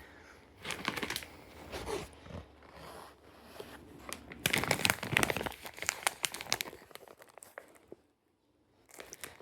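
Plastic snack bag of Kinder Kinderini cookies crinkling and rustling as it is handled, in irregular crackly bursts that are loudest about halfway through.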